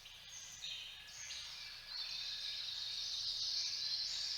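Forest ambience with a steady high-pitched chorus of wildlife, growing louder about two seconds in.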